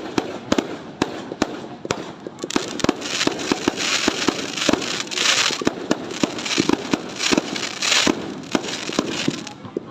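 Fireworks going off in quick succession: sharp bangs throughout, with a dense crackling hiss from about two and a half seconds in until near the end.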